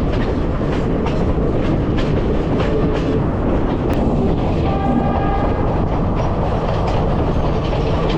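Passenger train running along the track: a steady rumble with the clickety-clack of wheels over rail joints. A brief high ringing tone comes about halfway through.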